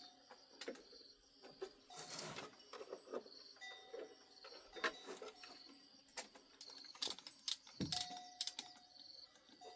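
Scattered light clicks, knocks and clinks of hand work on a car, with a few sharper knocks between about seven and eight and a half seconds in.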